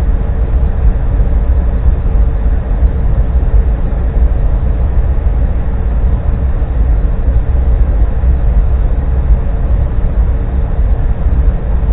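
Steady low engine rumble, like a vehicle idling, with a faint steady hum on top.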